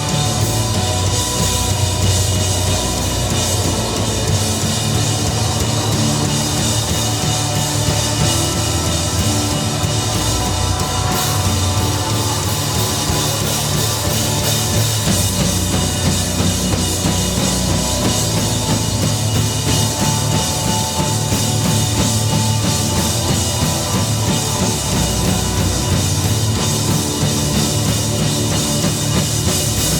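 Heavy metal band playing live and loud, with the drum kit and a heavy bass line up front.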